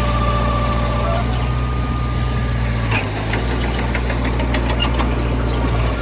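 Heavy diesel engine of earthmoving equipment running steadily with a deep rumble. From about halfway in, scattered sharp clicks and clanks are heard over it.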